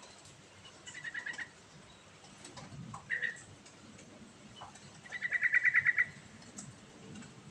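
A trucukan (yellow-vented bulbul) singing in short, fast, chattering trills: two brief phrases, then a longer, louder rapid trill about five seconds in.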